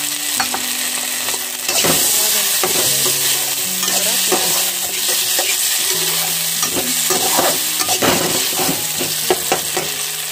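Green peas, tomato and onion sizzling in hot oil in a kadhai, with a slotted metal spatula stirring and scraping against the pan in repeated strokes.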